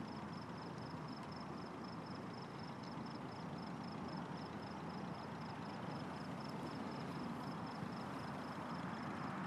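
A cricket chirping steadily, about four high chirps a second, over a low, even background rumble with no thunderclap.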